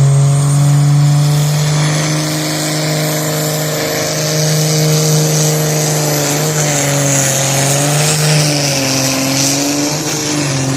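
Turbocharged diesel engine of a competition pulling tractor, rated about 1500 hp on 6 bar boost, running flat out under load while it drags the weight sled. A steady deep drone carries a high turbo whistle. The engine pitch wavers about two-thirds of the way through and sags slightly near the end as the sled grows heavier.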